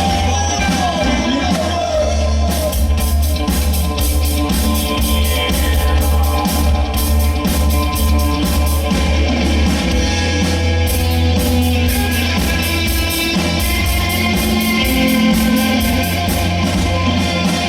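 Live rock band playing: electric lead guitar, bass guitar and drums, with a steady beat and some singing.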